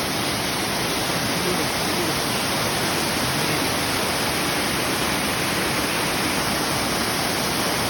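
Waterfall pouring, a loud, steady rush of water heard close up from a deck right at the falls.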